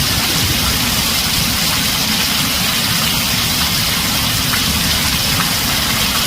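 Heavy rain drumming steadily on a tin roof, an even hiss with a low rumble underneath.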